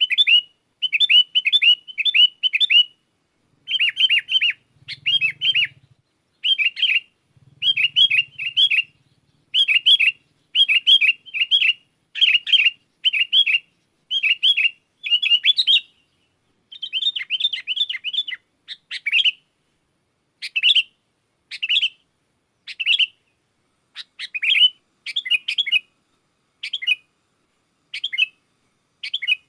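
Sooty-headed bulbuls calling: short clusters of quick, bubbly chirps repeated about once a second. The phrases grow shorter and more widely spaced in the second half.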